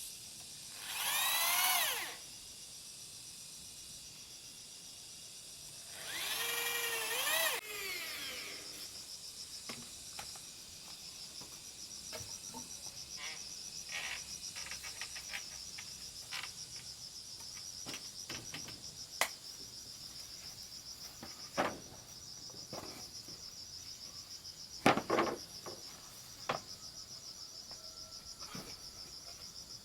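Two short bursts of a woodworking tool, each with a sweeping pitch and lasting about a second. Then a steady high insect chirring, like crickets, sets in, with scattered sharp knocks of wood being tapped.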